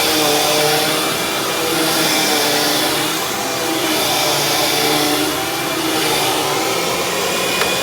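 Dirt Devil Ultra Vision Turbo upright vacuum cleaner running steadily, its motor tone wavering slightly every second or two.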